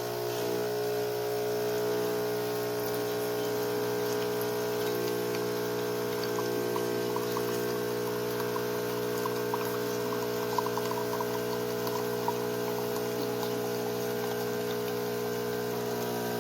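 Philips 3200 fully automatic espresso machine's pump humming steadily as it dispenses, with a few light clicks or drips about halfway through.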